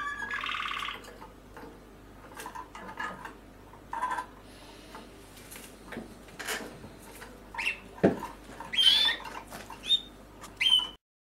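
Young Malinois (Waterslager) canaries calling: scattered short chirps and squeaks, with a buzzy call in the first second and a few sharp rising chirps near the end.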